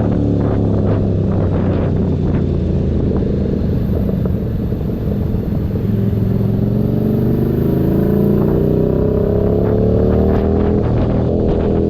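Keeway SCR 250's V-twin engine running through a Racefit free-flow exhaust. The revs ease off briefly about four seconds in, then climb steadily for several seconds.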